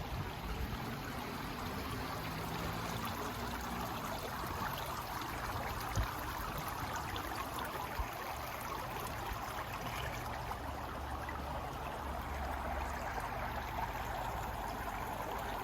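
Steady rush of running water by the hotel pool, with a low hum underneath and a couple of small knocks about six and eight seconds in.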